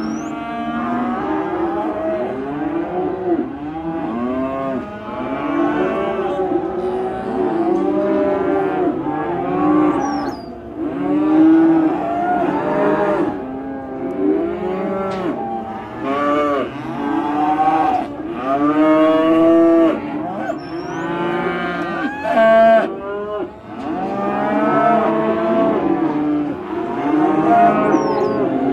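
Many cows mooing continuously, their calls overlapping, each rising and then falling in pitch.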